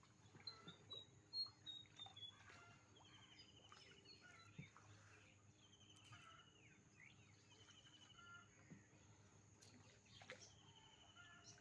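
Faint bird calls: scattered short chirps, then a quick trill of about a second, repeated three times.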